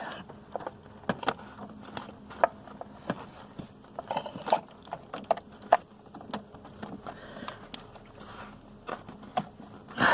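Irregular light clicks, taps and short scrapes of hands working with parts and tools in an engine bay, the engine not running.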